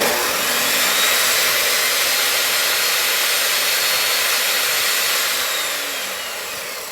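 SKIL table saw running with its motor and blade at speed, a steady loud whine as it cuts a board that pinches the blade and binds. Near the end the sound fades and the whine drops as the saw winds down.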